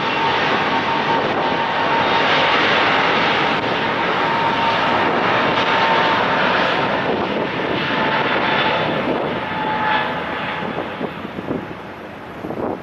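Airliner engines at takeoff thrust: a loud, steady roar with a faint whine in it, fading away over the last few seconds as the aircraft moves off.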